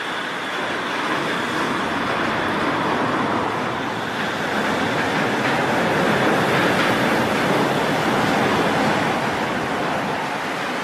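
Train passing at speed: a rushing noise that swells toward the middle and eases off near the end, with a faint high whine early on.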